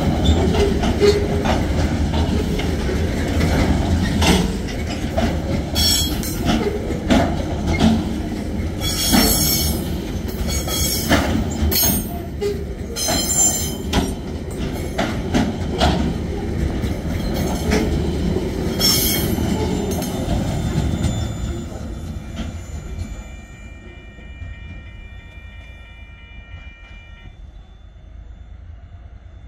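TasRail coal train rolling past: a steady low rumble with repeated wheel clacks and short high wheel squeals, dying away about two-thirds of the way through.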